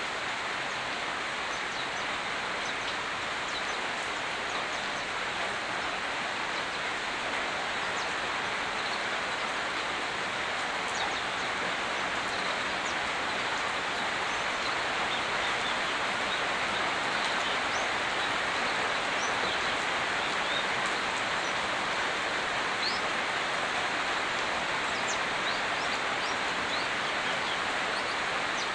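Steady rainfall, an even hiss without a break. Faint, short, high bird chirps are scattered over it, more of them near the end.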